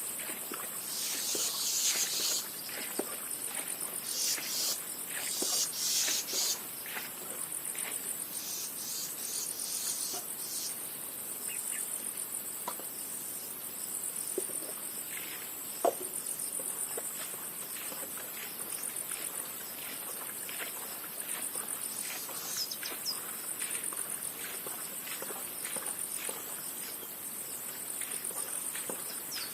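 Insects, likely crickets, chirping steadily in a high-pitched rapid pulsing trill. Irregular rustling noises come and go in the first several seconds, and there is one sharp click about halfway through.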